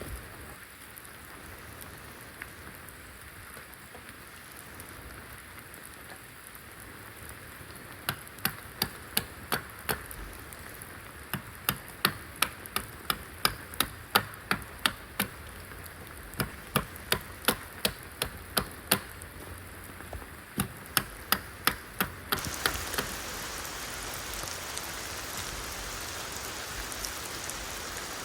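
Steady rain hiss, with a run of sharp, evenly spaced strikes, about three a second in groups of several, from about eight seconds in to about twenty-two seconds in. The rain then becomes louder.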